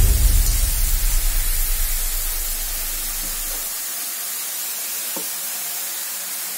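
Shredded cabbage frying in a kadai, a steady sizzling hiss. A low rumble underneath stops a little over halfway through.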